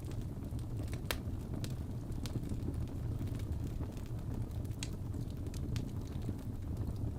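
Crackling fireplace: a steady low rumble of burning logs with scattered sharp pops and snaps, the loudest about a second in.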